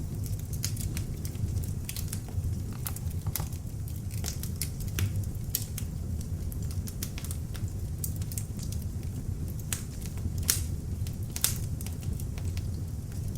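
Beech log fire in an open fireplace crackling, with frequent sharp pops over a steady low rumble of the flames; a couple of louder pops near the end.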